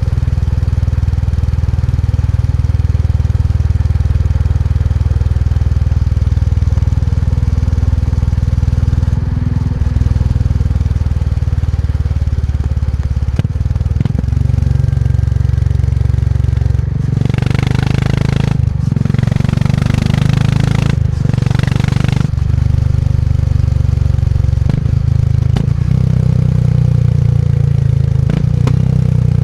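Motorcycle engine running steadily while riding, a deep low note throughout. From about seventeen seconds in, a louder rushing noise comes and goes for about five seconds as the engine note shifts.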